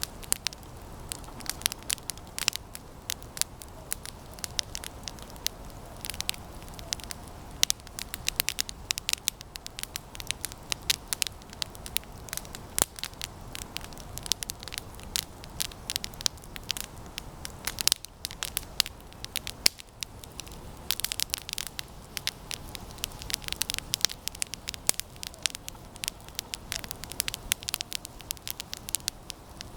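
Campfire of resinous pine branches burning with constant, irregular crackling and popping.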